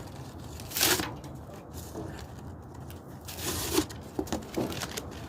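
Rustling and crunching from handling kindling and firewood while starting a campfire: two loud bursts about a second in and midway, followed by a few short snaps.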